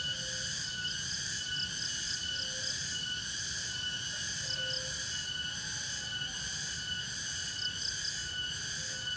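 Forest insect chorus, crickets and cicada-like insects shrilling steadily, with a regular pulsing high trill and a few short faint chirps over a low background rumble.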